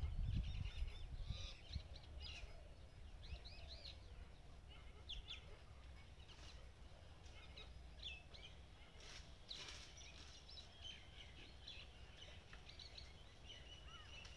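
Several birds chirping and calling in short, scattered phrases, over a low outdoor rumble that is strongest in the first second or two.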